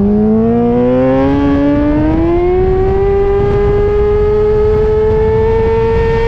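Sport motorcycle's inline-four engine, a Suzuki GSX-R1000R, accelerating hard: the pitch climbs for about two and a half seconds, then holds high and steady.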